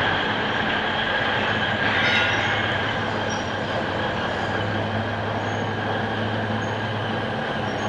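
Alishan Forest Railway train running, a steady rumble with a low hum and a steady high-pitched whine over it.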